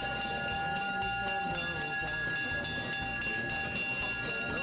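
Small diesel switcher locomotive running as it hauls a passenger train through a grade crossing, with the crossing bell ringing steadily over the engine's low rumble.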